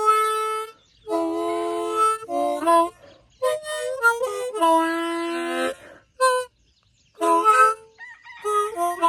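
Harmonica playing short phrases of held chords and single notes, broken by brief pauses and one longer pause about two-thirds of the way through.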